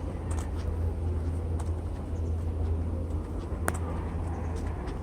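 Steady low hum of an MTR East Rail line electric train at a station platform, with a few light clicks and one sharp click about three and a half seconds in.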